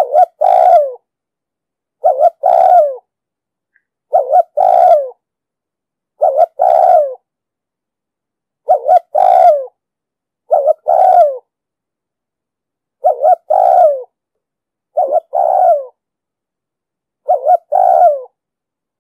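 Spotted dove cooing: nine phrases, about one every two seconds, each of two short notes followed by a longer note that falls at its end, with silence between phrases.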